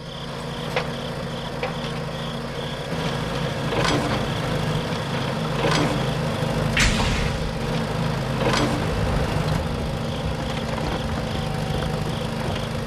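A motor running steadily, with several sharp clicks or knocks scattered through.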